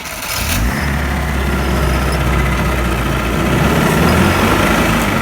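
GAZ-69's four-cylinder engine revving up about half a second in and holding high revs, the engine under load as the jeep tries to drive out of a rut it is stuck in.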